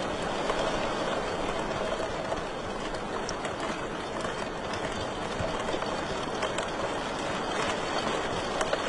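Wood fire in a fireplace crackling, a steady hiss dotted with small pops and snaps, a few sharper ones near the end.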